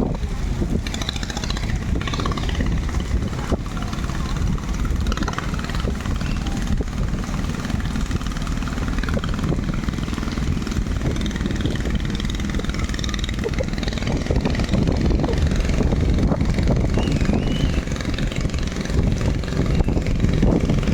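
Longtail boat engine running, a steady low rumble that grows a little louder in the second half.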